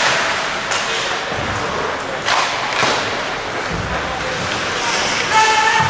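Ice hockey game play: skates scraping on the ice and sharp knocks of sticks and puck, over the noise of voices in the rink. A held, pitched call rings out near the end.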